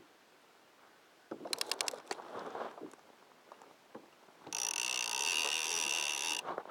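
Fishing reel's drag running for about two seconds near the end as a hooked mahi-mahi pulls line off it, a loud steady whirr. Earlier, a quick row of clicks and some handling rustle.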